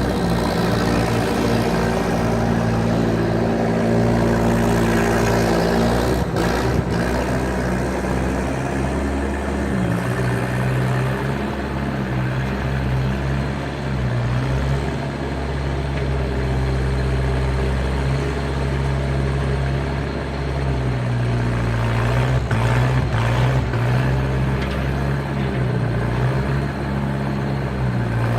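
Skid steer loader's engine running steadily at working speed, its pitch shifting a few times as the load changes. A few short knocks come about six seconds in and again near the end.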